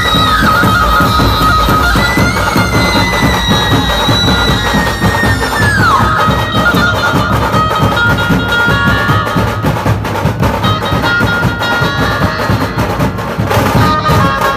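Dhumal band music: loud, dense drumming under a held lead melody that swoops down in pitch about half a second in and again around six seconds, then moves on in shorter notes.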